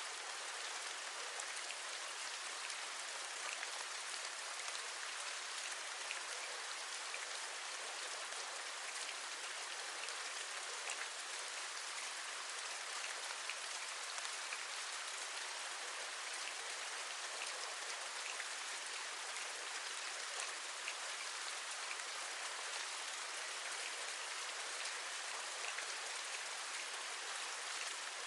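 Steady rain falling, an even hiss with many small scattered drop taps throughout.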